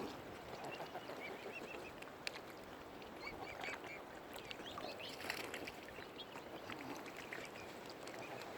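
Mute swan cygnets peeping: many short, high chirps in quick succession over a faint outdoor hiss.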